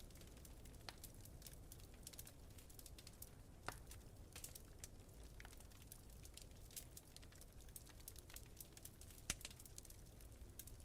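Wood fire crackling in a fireplace: a constant scatter of small ticks and pops, with two louder snaps about a third of the way in and near the end, over a faint, steady low rumble of wind.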